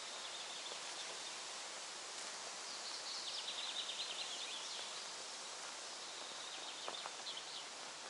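Forest ambience: a songbird sings a quick trill of rapid high notes a few seconds in, with a few more scattered notes near the end, over a steady outdoor hiss.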